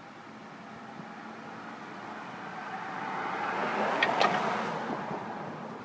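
A car passing by, its noise swelling to a peak about two-thirds of the way through and then fading. Two sharp clicks sound near the peak.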